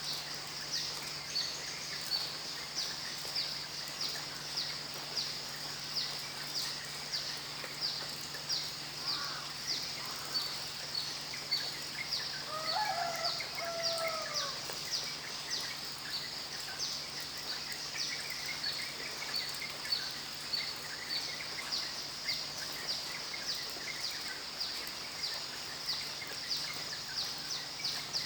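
Outdoor nature ambience: a high chirp repeats steadily about one and a half times a second. About halfway through, a fowl gives one call of about two seconds that rises and falls.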